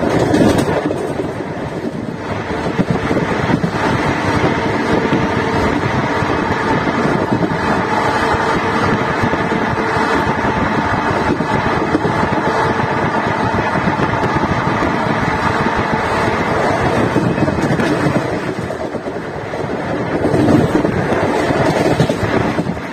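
Steady running noise of an ICF passenger coach at speed: wheels rumbling on the rails, with wind rushing over the microphone.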